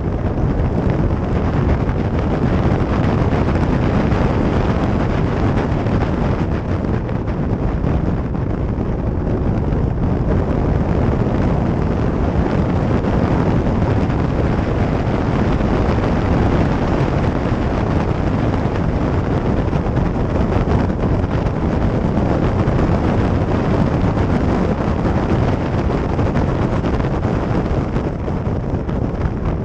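A vehicle in motion, with steady road and running noise under heavy wind buffeting on the microphone.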